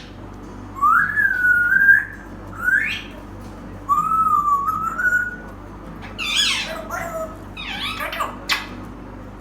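African grey parrot whistling and squawking in imitation of other birds' calls. Two long, slightly wavering whistles, with a short rising call between them, are followed in the second half by a quick run of harsher calls.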